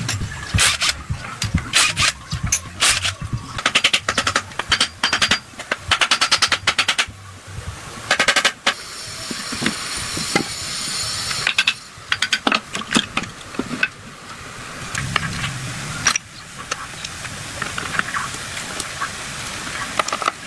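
Hands-on workshop work on a 110cc motorcycle engine: a quick, irregular run of scrapes and knocks of tools on engine parts, with a steady hiss for a few seconds near the middle.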